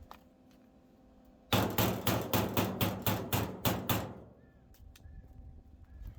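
Hammer striking steel on a car body, a quick run of about ten blows, about four a second, starting about a second and a half in.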